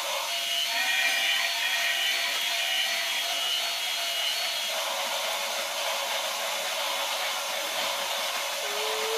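Toy locomotives running on their track, a steady electric whir and hiss, with a short rising tone near the end.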